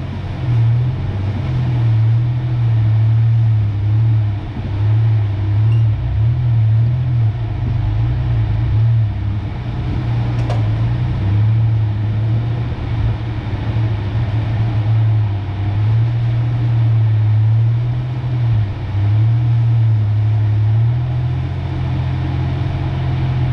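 1993 Ford Ranger pickup driving slowly, its engine a steady low drone that dips and picks up again a few times as the throttle changes, easing off near the end.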